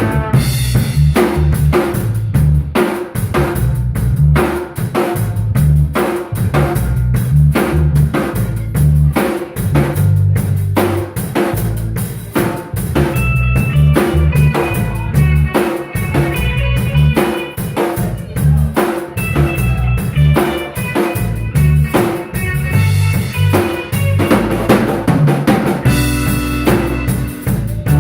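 Instrumental band playing live, with a busy drum kit (kick, snare and rimshots) driving a steady beat over a moving bass line and higher melodic instrument notes.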